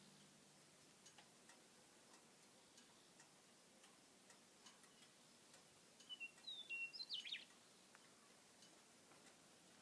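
Near silence with faint scattered ticks, and a short, high bird call of a few chirps about six seconds in.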